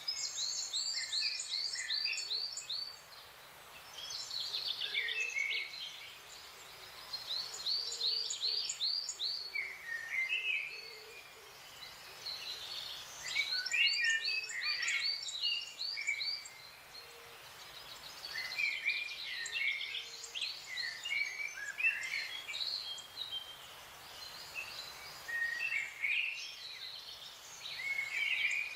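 Forest songbirds singing: bursts of rapid, falling whistled notes come every few seconds, with chirps from other birds between them, over a soft steady background hiss.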